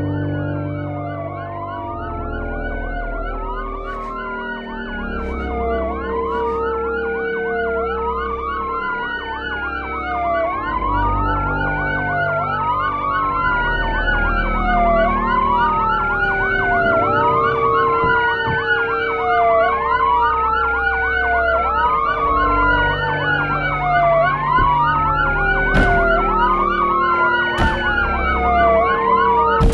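Several emergency sirens wailing over one another, each rising and falling about every two seconds, over a low rumble. Two sharp clicks near the end.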